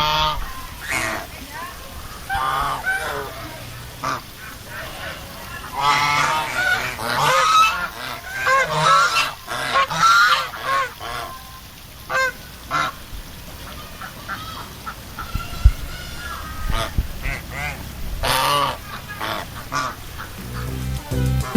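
A flock of domestic geese honking, with ducks calling among them; the calls come in clusters, thickest in the middle stretch and again near the end.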